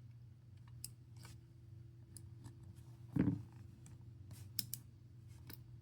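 Light, scattered clicks and ticks of a small pry tool working against a smartphone's internal parts while a stuck component is pried at, with a brief low murmur of a voice about three seconds in.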